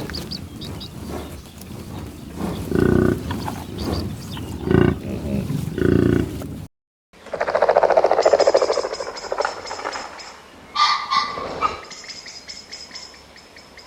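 Animal calls from two clips, with a brief break about two-thirds of the way in: first several separate calls, then a louder drawn-out call followed by thin high-pitched notes.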